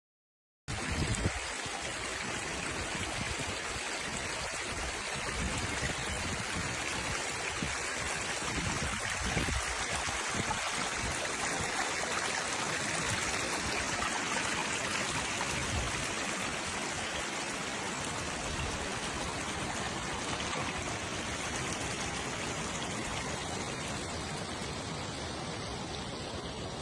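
Steady rushing of flowing water, an even hiss with some low rumble early on.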